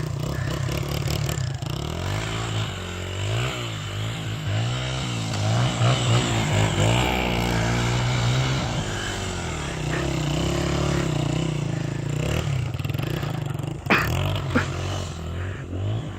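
Honda XR100 dirt bike's single-cylinder four-stroke engine running under way, its pitch rising and falling as the throttle is worked, with a couple of sharp knocks about two seconds before the end.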